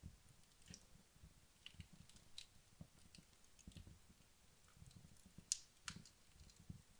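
Wood logs burning in a fireplace, giving faint, sparse crackles and small pops. The sharpest pop comes about five and a half seconds in, with another just before six seconds.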